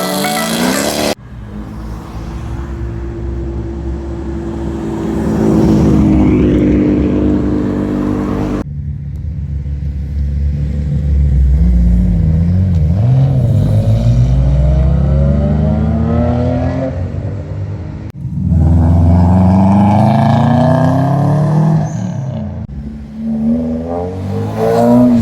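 Modified Japanese cars accelerating away one after another, each engine revving up with its pitch rising through the gears. The sound changes abruptly several times as it cuts between different cars.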